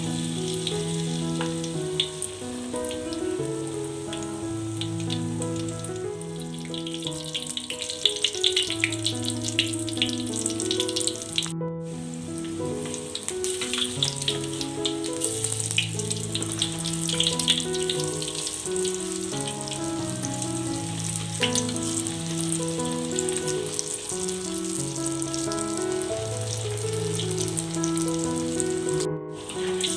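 Tofu fritters deep-frying in oil in a wok, a steady sizzle with fine crackling. Background music with a bass line and held notes runs underneath. The sound breaks off for a moment twice.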